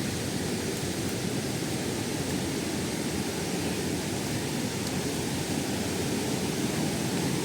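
Waterfall: falling water rushing in a steady, deep, unbroken noise.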